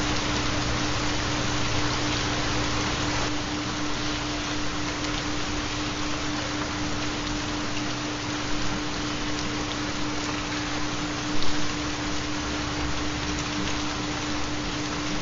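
Steady rain noise. Under it runs a continuous low, even tone: the carrier of theta (4 Hz) binaural beats. A brief louder patch comes about three-quarters of the way through.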